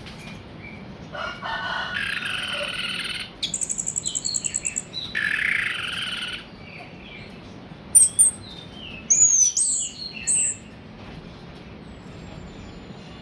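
Orange-headed thrush song: harsh rattling chatter and a fast trill, then a few short, loud, high whistles, some sliding up and down.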